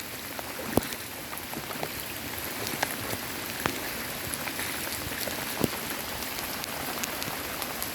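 Steady rain hiss, with scattered sharp drops striking close by.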